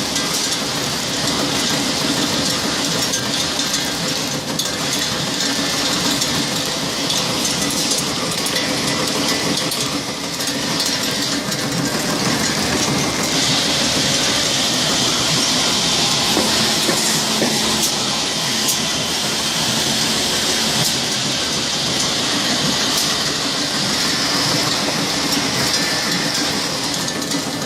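Candy wrapping machine running with a steady, fast mechanical clatter and hiss; the hiss gets louder about halfway through.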